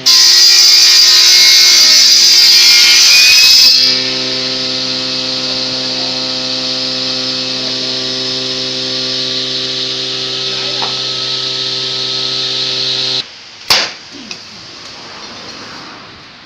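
Electric power tool cutting into wood for about four seconds, loud and hissing, then running unloaded with a steady motor hum until it cuts off suddenly about thirteen seconds in. A sharp knock follows shortly after.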